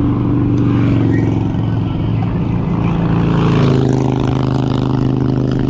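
A motor vehicle's engine running with a steady note, which shifts in pitch about two-thirds of the way through.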